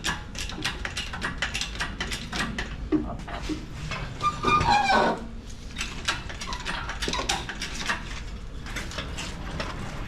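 Rapid clicking of a ratchet wrench with clanks of hand tools on metal, with a short squeal falling in pitch about four seconds in.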